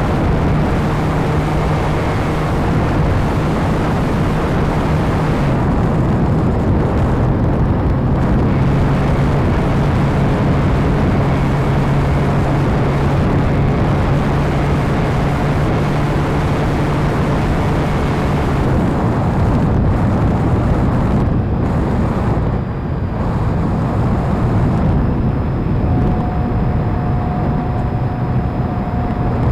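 Radio-controlled model airplane in flight: a steady motor-and-propeller drone under heavy rushing wind noise. The drone dips a little in pitch about five seconds in and fades out past the middle, leaving mostly wind, and a thin higher tone comes in near the end.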